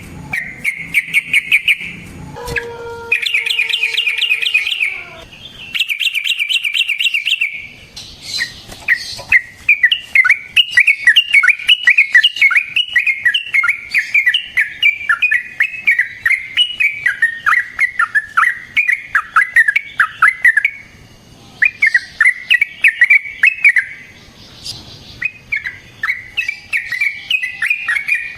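Yellow-vented bulbul (trucukan) singing in fast, chattering trills. A few short bursts come first, then a long unbroken run of rapid notes through the middle, then shorter bursts with brief pauses.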